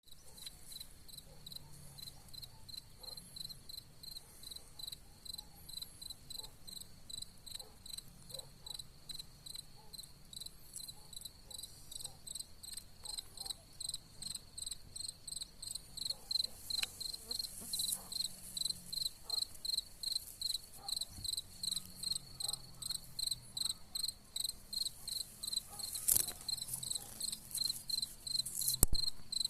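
Cicadas singing: a high, rhythmic pulsing chorus at about two to three pulses a second, growing louder partway through. A sharp click sounds near the end.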